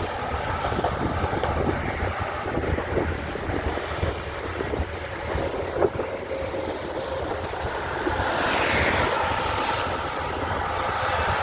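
Roadside traffic noise with wind buffeting the microphone. A vehicle's tyre and engine noise swells as it passes, about eight seconds in.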